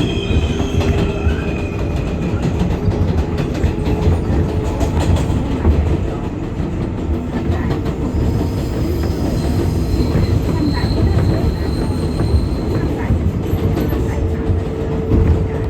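R188 subway train running between stations, heard from on board: a steady loud rumble of wheels on rail with rapid clicking over the track, and thin wheel squeal tones that come in about halfway through.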